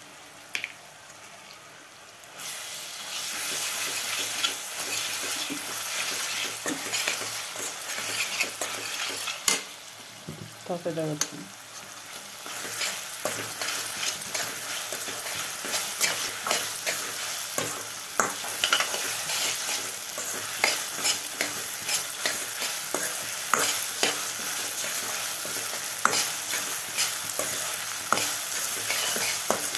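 Chopped onions and green chillies sizzling in oil in a stainless steel pot, stirred with a steel ladle that scrapes and clicks against the pan. The sizzle gets louder about two seconds in and then holds steady.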